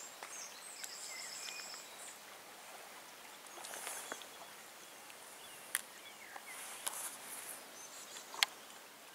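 Faint outdoor ambience with short, high chirping bird calls in the first two seconds, then a few sharp clicks, the loudest near the end.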